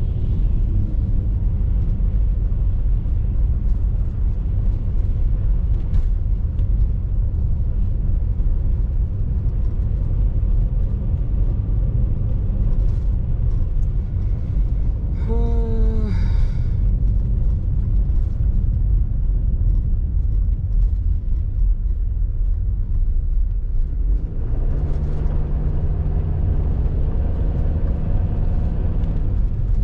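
Steady low rumble of a car driving, heard from inside the cabin. Briefly in the middle there is a short sound that falls in pitch, and about 25 seconds in a steady pitched engine hum joins the rumble.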